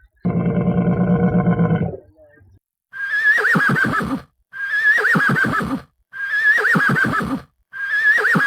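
A low, drawn-out animal call lasting under two seconds, then a horse whinnying four times in a row, each the same high, quavering neigh that drops in pitch.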